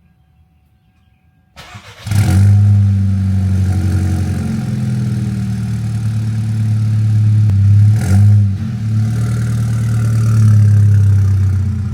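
Volkswagen Mk6 GTI's 2.0-litre turbocharged four-cylinder on a cold start: a short crank about a second and a half in, then it catches and settles into a loud, steady idle, with one brief rev about eight seconds in.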